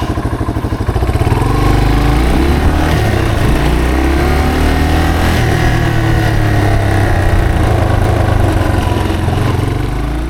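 Yamaha TW225's single-cylinder engine ticking over with an even, fast pulse, then pulling away about a second in and getting louder, its pitch rising and dropping as it accelerates through the gears.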